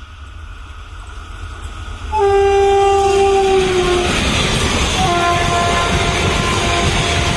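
WAP-4 electric locomotive hauling an express train past at high speed. It sounds its horn in two long blasts, the first about two seconds in and the second, a little lower in pitch, from about five seconds, as the loud rush and rumble of the locomotive and coaches sets in suddenly.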